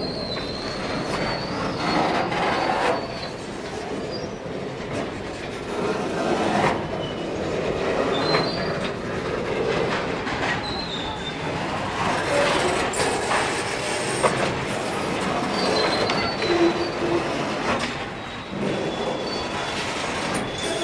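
Circus train of loaded flatcars rolling slowly past, steel wheels rumbling on the rails. Short wavering high-pitched wheel squeals come and go several times, and the wheels clack now and then over rail joints.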